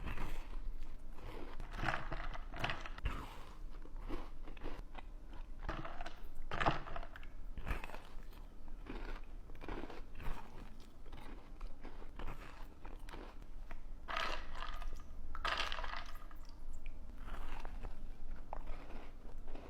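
A person biting and chewing crunchy food close to the microphone, in irregular bursts of crunching.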